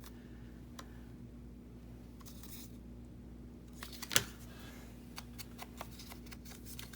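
Small scissors snipping paper: a sharp snip about four seconds in, then a run of small quick snips and ticks near the end, over a faint steady hum.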